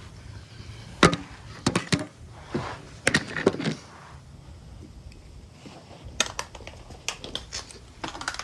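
Irregular sharp clicks and knocks of parts and tools being handled during engine-bay disassembly, the loudest about a second in, with clusters around three seconds and again near the end.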